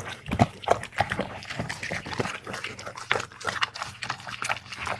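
A dog eating greedily, with quick, irregular chewing, crunching and lip-smacking.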